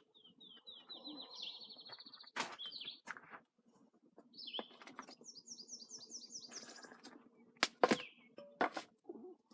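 A songbird singing two quick trills of short repeated notes, the second one higher-pitched, with a few sharp knocks between them.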